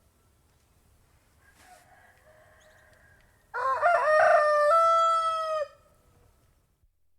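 Domestic rooster crowing once, loudly, about halfway through: a rising, wavering start and then a long held note, roughly two seconds in all. Fainter calls come before it.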